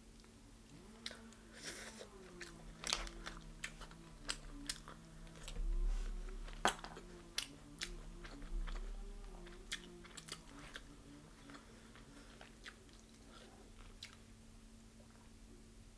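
Crispy deep-fried chicken being bitten and chewed close to the microphone: irregular crunches of the fried coating, with a cluster of louder crunches about six seconds in.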